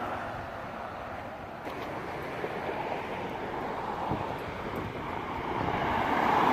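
Ocean surf washing in, with wind buffeting the microphone; the noise swells and eases and grows louder near the end.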